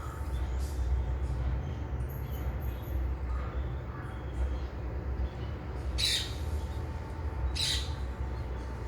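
Two harsh parrot squawks, about six and seven and a half seconds in, with a few faint chirps earlier, over a steady low rumble.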